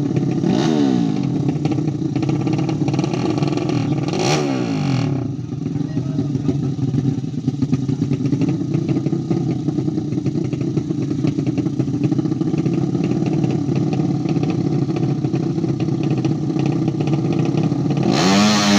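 A 200cc motorcycle engine running at a steady idle. It is revved briefly about half a second in and again around four seconds, with the pitch rising and falling each time, and is revved hard again near the end.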